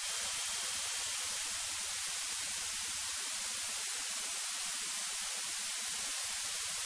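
Steady electronic hiss from the cockpit audio feed between spoken words, with no engine sound coming through.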